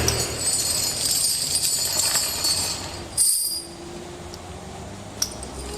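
Light metallic jingling and clinking over the faint low hum of a vehicle engine, with a short louder rattle about three seconds in and a sharp click near the end.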